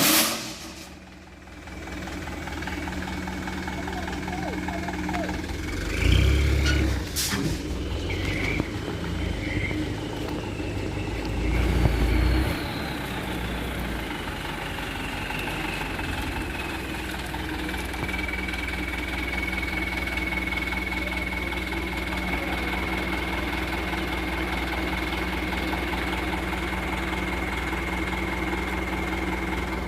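Mitsubishi Canter Super HDX dump truck's diesel engine running, with two loud low surges about six and twelve seconds in. After that it runs steadily, with a thin whine that falls in pitch and then holds.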